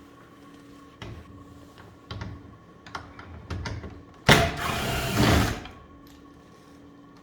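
Hands working on an air conditioner's parts: several sharp clicks and knocks, then a louder scraping, rustling clatter lasting about a second, over a faint steady hum.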